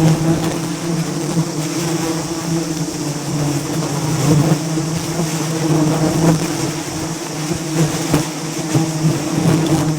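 Swarm of bees buzzing: a steady, droning hum with a few faint clicks.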